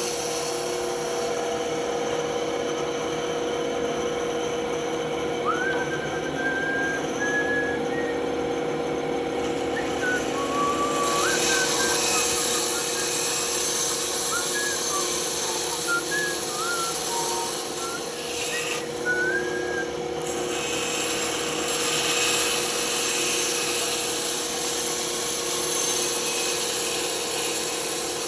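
Band saw running steadily and cutting wood, a constant motor hum under the rasp of the blade.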